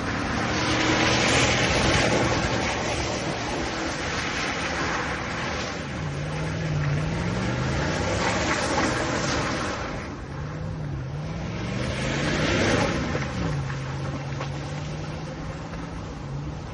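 GMC Sierra pickup's engine revving up and dropping back several times during a burnout, then holding a steady drone near the end, with loud hissing swells of spinning tyres over it.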